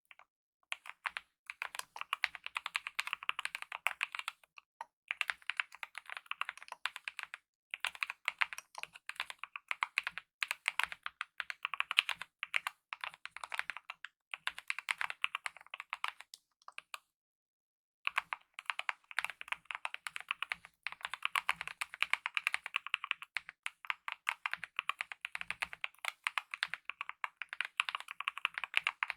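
Rapid, continuous typing on a mechanical keyboard with lubed optical linear red switches and DSA-profile keycaps: dense runs of light key clacks with brief pauses, and a gap of about a second a little past the middle.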